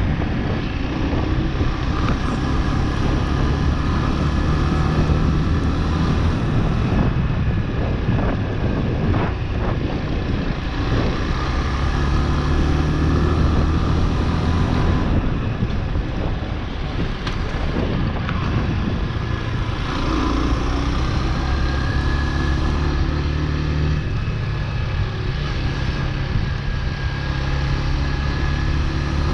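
Chopper Road 150cc motorcycle's single-cylinder engine running on the move, with wind and road noise on the action camera's built-in microphone; the engine note drops and picks up again several times as the throttle changes.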